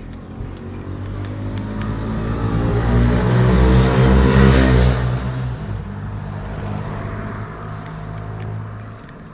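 A motor vehicle passing close by on the road: its engine and tyre noise grow louder over about four seconds, peak around the middle, then fade away.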